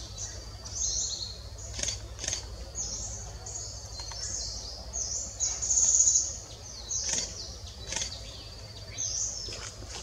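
Wild birds calling: a run of short, high-pitched call notes, one or two a second and sometimes overlapping, loudest about six seconds in, over a faint steady high tone.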